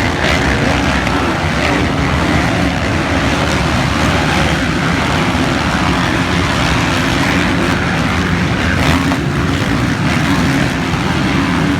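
Motocross dirt bike engines running steadily and loudly, with no clear revving rises or falls.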